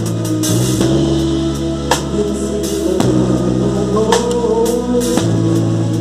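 Gospel band playing: a drum kit beating a steady pattern under held bass chords, with a melody line rising midway.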